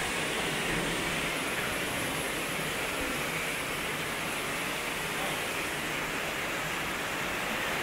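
Heavy rain pouring down, a steady even hiss of a downpour.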